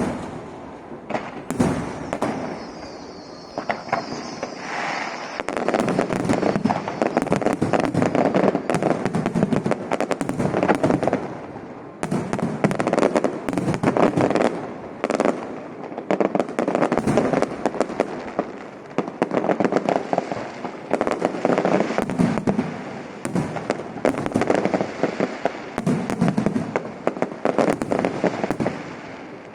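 Aerial fireworks going off in dense volleys of bangs and crackling that swell and ease every few seconds, with a brief whistle about two to four seconds in.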